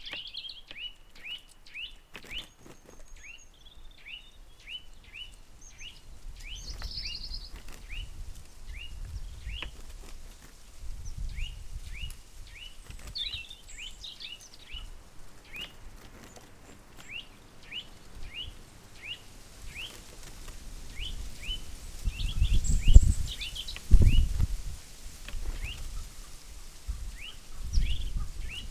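Great spotted woodpecker calling a steady run of short, sharp 'kik' notes, about two a second. Low rumbles of wind on the microphone swell up a little after two-thirds of the way through and are briefly louder than the calls.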